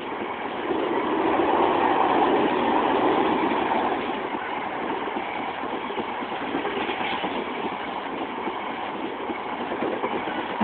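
A vehicle passing close by, its noise swelling for about three seconds from a second in and then settling to a steady level.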